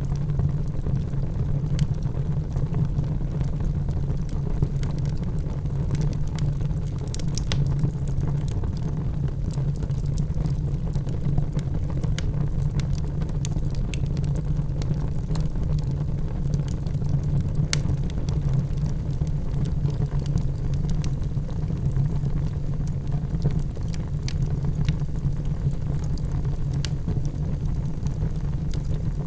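Wood fire burning in a fireplace: a steady low rumble with scattered crackles and pops, a few of them sharper, around seven seconds in and again later.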